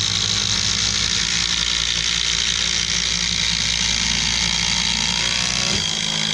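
Two cordless impact drivers, a Ridgid and a DeWalt, hammering together as they drive 7-inch log screws into wood: a loud, steady impact rattle.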